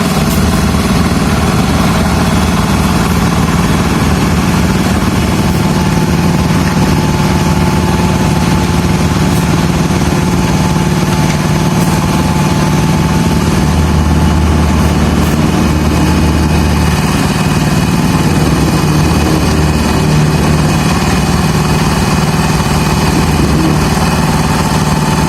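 Small engine of construction machinery running steadily at a constant speed.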